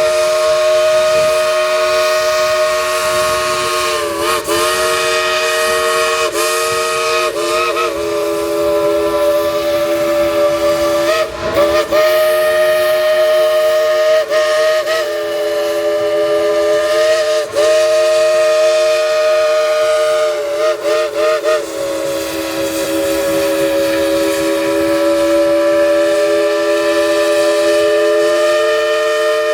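Steam locomotive's chime whistle blowing a chord of several notes, held on and on with quick breaks and wavers every few seconds, then a long steady blast through the last third.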